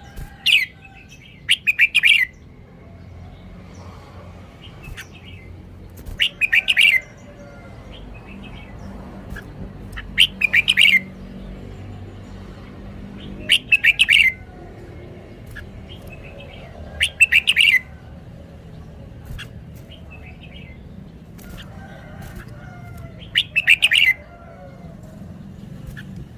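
Red-whiskered bulbul singing short, loud song phrases of under a second each, repeated about every three to four seconds, with a faint low hum beneath.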